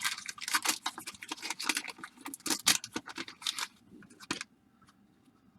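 Crinkling wax-paper wrapper and cardboard trading cards being handled as a 1989 Donruss baseball card pack is opened, a quick run of small rustles and clicks that stops about four and a half seconds in.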